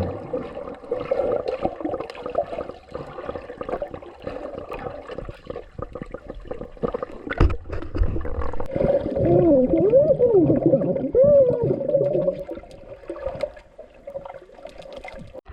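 Hot spring pool water sloshing and gurgling, with a muffled, wavering tone that rises and falls for a few seconds past the middle.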